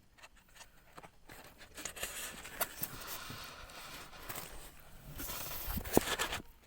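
Rustling and clicking of hands handling fishing gear just after a catch, with a sharp knock near the end.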